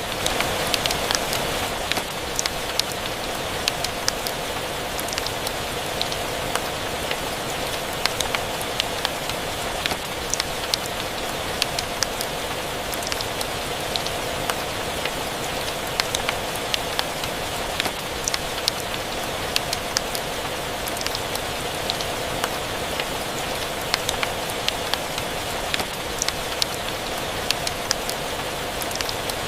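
Steady rain falling, with scattered sharp pops and crackles from a wood fire on top.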